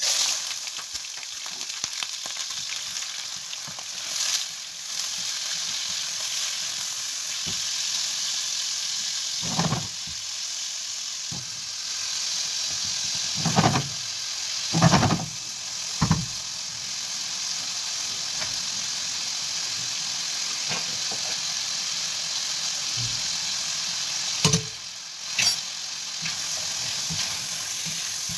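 Chicken livers and hearts frying in hot oil and ghee: a loud steady sizzle that starts suddenly as they go into the pan. A plastic spatula knocks and scrapes against the pan several times as they are stirred.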